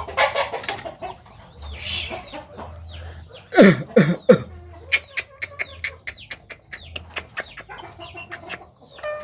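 Bird calls: a quick run of short chirps, clicks and chicken-like clucking, with three loud falling squawks about three and a half seconds in.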